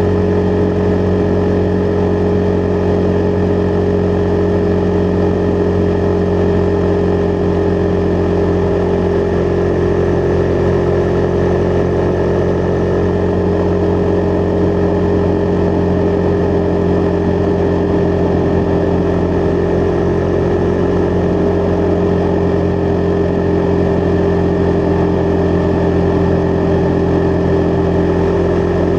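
Husqvarna Vitpilen 401's single-cylinder engine running at a steady speed while the bike cruises, its pitch holding level throughout.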